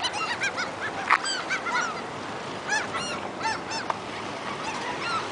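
A flock of birds calling over one another with many short cries, each rising and falling in pitch, as they feed on thrown French fries.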